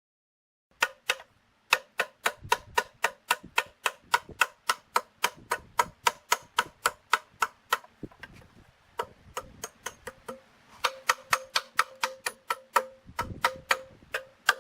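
A metal tool tapping repeatedly on a metal part, about three to four sharp strikes a second, each leaving a short ring. The tapping breaks off briefly about eight seconds in and again near thirteen seconds.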